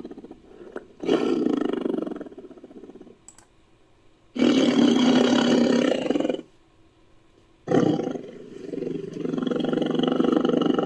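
Sound-designed creature roars made from tiger roars and a stock monster sound: three roars, the first about a second long, the second about two seconds, the third starting near eight seconds in, dipping and swelling again and still going at the end.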